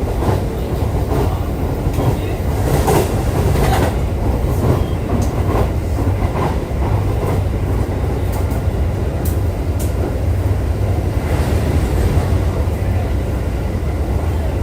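Running noise of a JR East E531 series electric train, heard from inside the car: a steady low rumble of wheels on rail, with a few short sharp clicks about three to four seconds in and again around nine seconds in.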